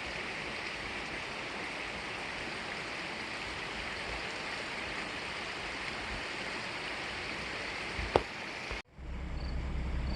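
Steady rush of a flowing stream, with one sharp knock about eight seconds in. It cuts off abruptly just before nine seconds, giving way to a low steady hum and a few faint high chirps.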